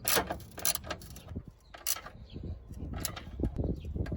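A hand ratchet clicking in short bursts, a second or so apart, with light metal clinks, as a 10 mm bolt is tightened.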